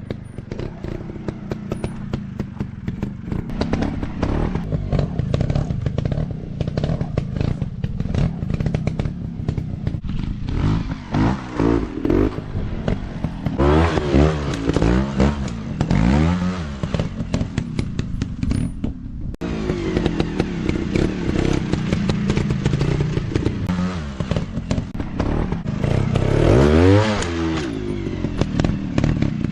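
Dirt bike engine running off-road, revved up and down in a series of rising and falling sweeps, loudest about halfway through and again near the end, over a steady clattering of knocks.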